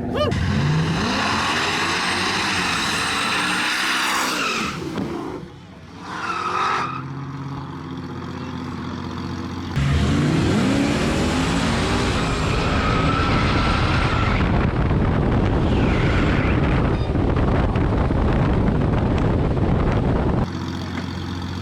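Drag-racing vehicles launching and accelerating hard, their engines repeatedly climbing in pitch through the gears. The sound drops away around five seconds in, then a second loud run starts abruptly about ten seconds in and cuts off suddenly near the end.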